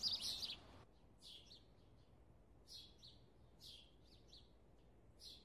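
Small birds chirping faintly: short high chirps, often in pairs, about once a second. A louder rush of noise mixed with chirps fills the first second.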